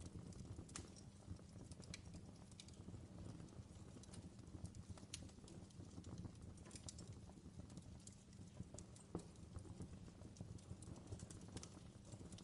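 Wood fire crackling faintly: irregular sharp pops and snaps over a low steady rumble.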